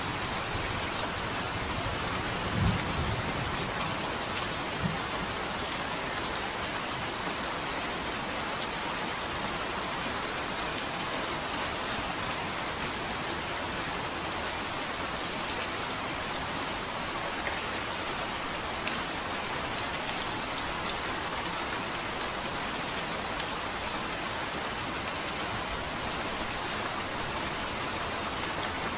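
Steady rain falling, an even hiss of drops. A brief low rumble of thunder comes about two and a half seconds in, with a smaller low thump a couple of seconds later.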